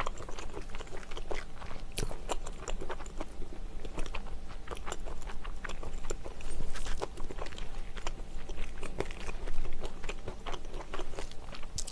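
Close-miked chewing of a mouthful of food with the mouth closed: small wet mouth clicks and smacks at an irregular pace, a little louder about seven seconds in and again near the end.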